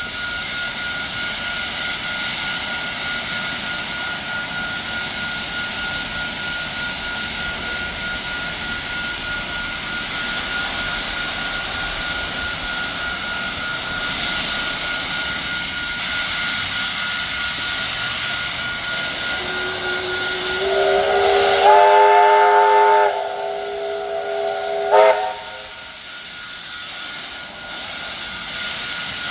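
Steam locomotive JA1271 hissing steam steadily, then its whistle sounding a long chord-like blast that builds up about twenty seconds in, followed by a short toot.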